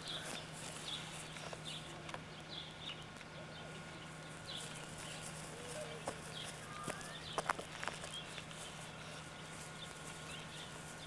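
Birds chirping and calling, scattered short high chirps with a few gliding calls lower down. Two or three sharp knocks about seven and a half seconds in, over a steady low hum.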